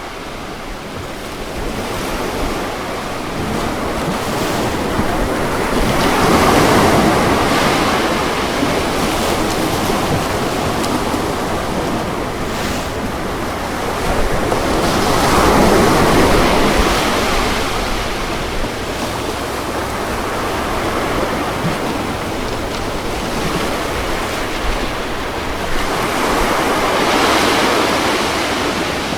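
Ocean waves breaking, three surges of surf swelling and fading about ten seconds apart over a steady wash of water.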